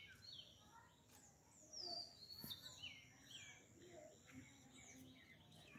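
Faint birds chirping outdoors: short, high, falling notes repeating over a quiet background hum.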